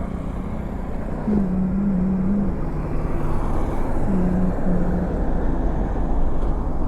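Road traffic: passing vehicle engines over a steady rumble, with a low drone that steps between pitches a few times.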